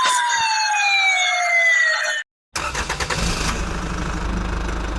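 An electronic siren wailing with a slowly falling pitch. It cuts off abruptly about two seconds in, and after a short gap a steady low engine rumble takes over.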